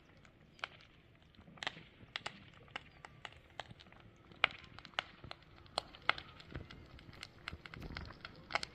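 Fire crackling, with irregular sharp pops and snaps several times a second over a low hiss.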